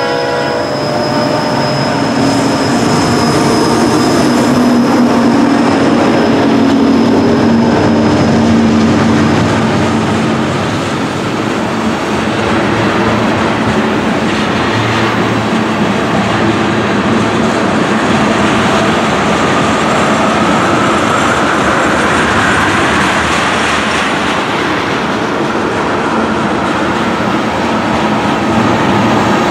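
The trailing CSX GE diesel locomotive of a loaded ethanol train passes, working hard up a grade; its engine drone and a high whine fade over the first ten seconds. Then the loaded tank cars roll by with steady wheel clatter on the rail joints, and a wheel squeal rises about two-thirds of the way through.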